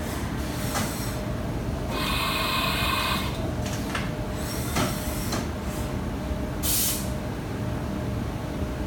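Haas VM3 vertical machining centre running: a steady mechanical hum with a faint steady tone. A hiss with a whine lasts about a second, starting about two seconds in, and a shorter hiss comes near seven seconds, with a few sharp clicks between.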